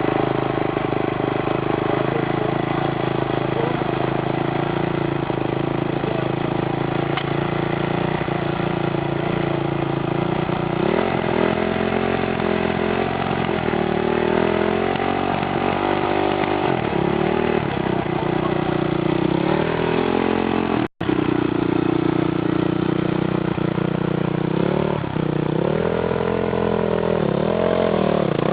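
Small off-road vehicle engine running, steady at first, then revving up and down repeatedly with the pitch rising and falling. About 21 s in there is a sudden brief break, after which the revving goes on.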